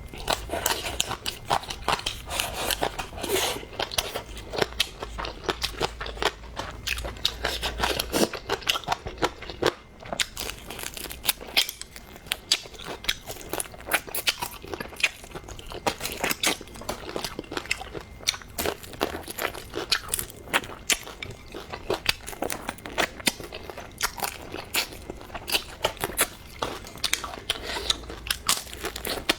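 Crunchy food being chewed close to the microphone: a continuous, irregular run of crisp crunches and wet chewing clicks.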